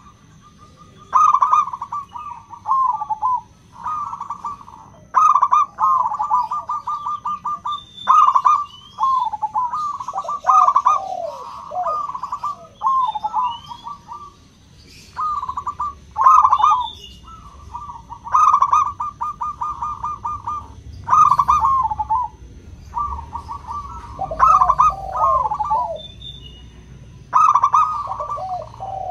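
Zebra doves cooing: phrase after phrase of rapid, stuttering coos, one every second or two, with two birds at times overlapping. Faint chirps from small birds and a thin steady high tone run underneath.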